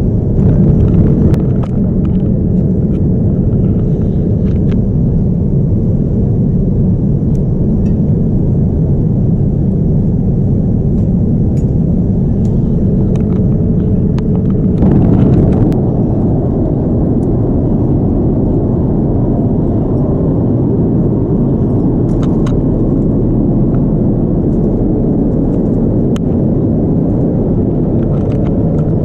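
Steady rumble of a Boeing 787-9 in flight, heard from inside the cabin, with a few light knocks and a brief louder surge about halfway through.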